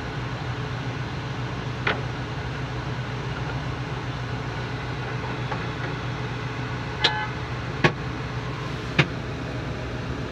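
Car engine idling steadily, heard from inside the cabin, with four sharp clicks: one about two seconds in and three close together near the end.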